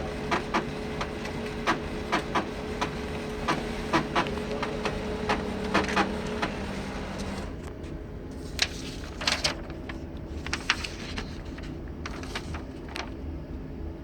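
HP LaserJet M5035 multifunction printer running with a grinding noise: a steady hum broken by frequent irregular clicks. About halfway the hum drops away and only a few scattered clicks remain.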